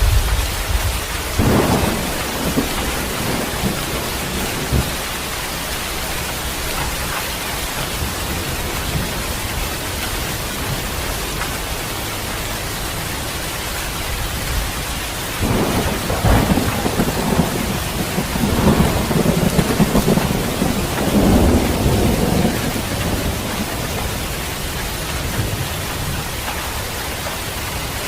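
Heavy rain falling steadily, with thunder: a rumble about a second and a half in, then a long rolling peal of thunder lasting several seconds from about halfway through.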